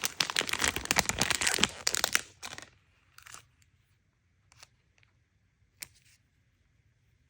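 Toy packaging being torn open and crinkled: a dense crackling for about the first two seconds, then a few scattered light clicks.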